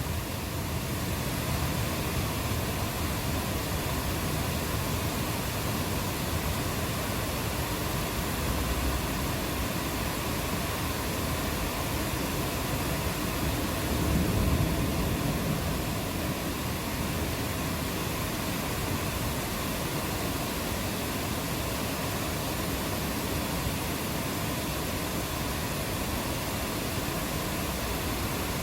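Steady rain falling, an even hiss. About halfway through, a low rumble of distant thunder swells briefly and fades.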